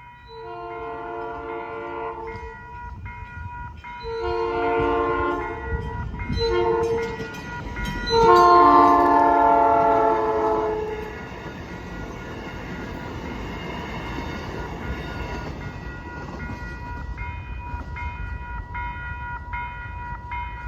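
South Shore Line electric commuter train sounding its horn for the grade crossing in the standard long, long, short, long pattern, the last blast the loudest and dropping slightly in pitch as it passes. The train then rumbles by over the rails while a crossing bell keeps ringing.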